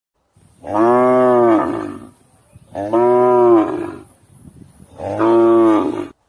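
Cow mooing three times, each a long call of a little over a second that rises slightly and falls in pitch.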